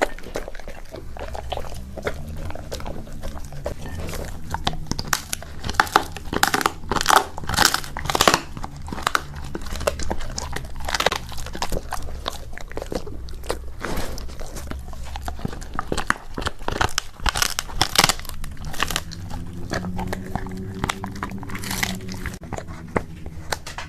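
Golden retriever crunching and chewing a freeze-dried ostrich head, with irregular cracking bites of hard, dry bone, densest in the first half and again a little past the middle.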